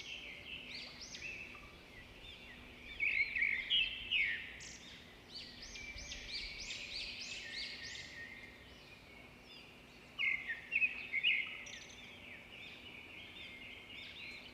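Several birds chirping and singing with overlapping short calls, loudest around three to five seconds in and again about ten seconds in.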